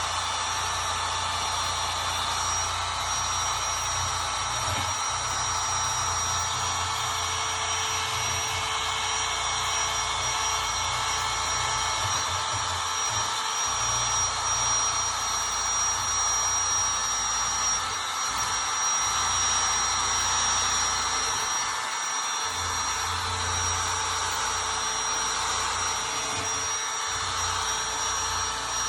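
Compact drill spinning a wire brush bit against a rusty steel lawnmower blade, scrubbing off rust and built-up debris. It runs steadily without a break, with a thin high motor whine over the scratchy brushing.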